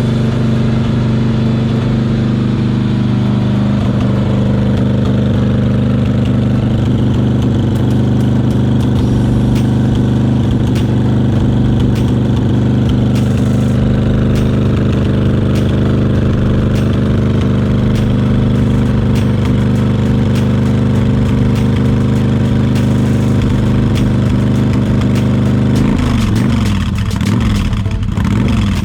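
Yamaha XV1100 Virago's air-cooled V-twin idling steadily through its exhaust. About three seconds before the end, the steady note breaks up and wavers.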